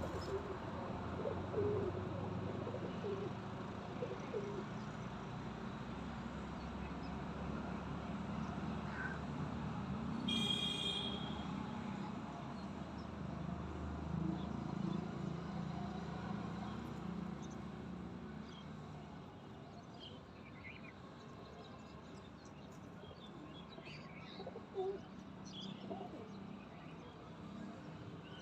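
Birds calling while feeding: one short, bright, high call about ten seconds in and scattered short chirps later on, over a steady low background rumble.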